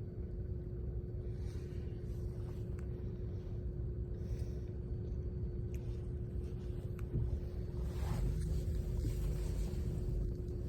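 Steady low rumble of a car with a constant machine hum over it. A few faint clicks, and a short swell of hiss about eight seconds in.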